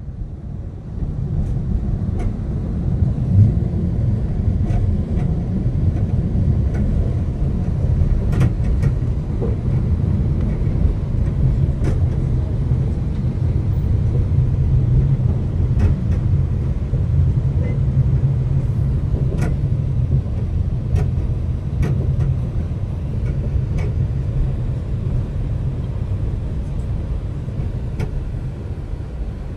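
Steady low rumble of an Alishan Forest Railway passenger car running along the narrow-gauge track, heard from inside the carriage, with scattered light clicks.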